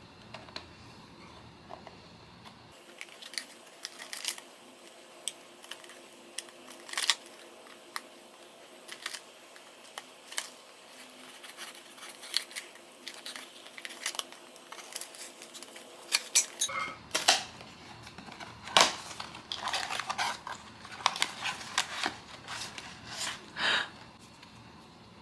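Blind box packaging being handled and opened: crinkling paper and plastic with many sharp clicks and crackles, getting busier over the last several seconds.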